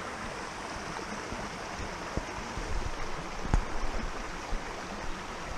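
Creek water rushing steadily over rocks in a shallow salmon stream. A single sharp click comes about three and a half seconds in.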